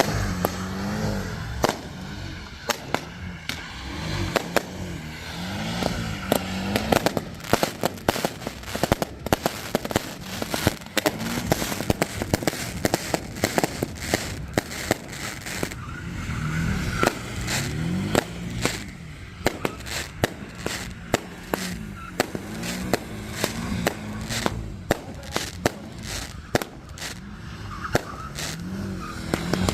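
A car engine revved up and down over and over, with a rapid run of loud exhaust pops and bangs crackling through it.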